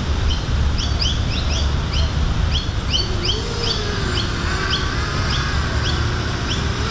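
A bird calling over and over with short rising chirps, about three a second, over a low wind rumble on the microphone. About three seconds in, the wavering whine of a 210-size FPV quadcopter's motors comes in as it flies at a distance.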